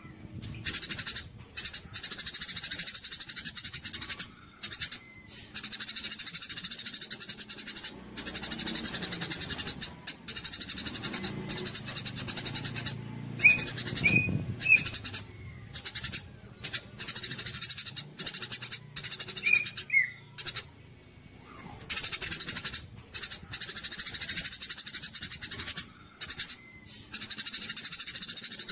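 Eurasian tree sparrow (burung gereja) singing in the 'kapas tembak' style: fast, high, buzzing trills in bursts of a few seconds, separated by short pauses, with a few brief lower chirps in between.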